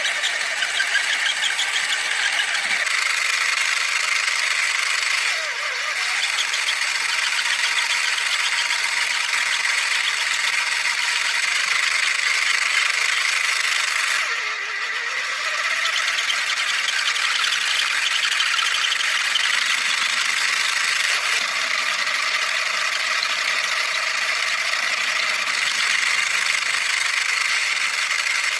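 A small high-speed motor running steadily with a high whirring sound, dipping briefly twice, about five and fifteen seconds in.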